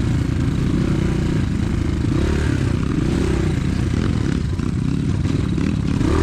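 Pit bike's single-cylinder four-stroke engine running while riding off-road, its pitch rising and falling with the throttle, with some rattling from the bike over rough ground.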